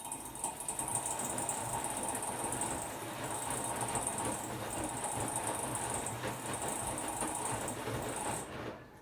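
Hotpoint-Ariston Aqualtis washer-dryer's brushless inverter motor turning the drum steadily for about nine seconds, then stopping suddenly.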